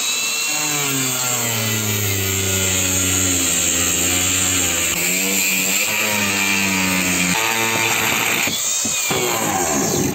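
Power tool motor running under load, its pitch sagging and recovering as it cuts, with a rising whine as it spins up at the start and a falling whine near the end.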